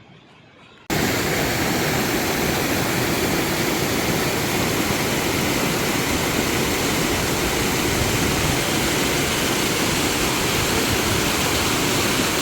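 Loud, steady rush of a waterfall close by, starting suddenly about a second in.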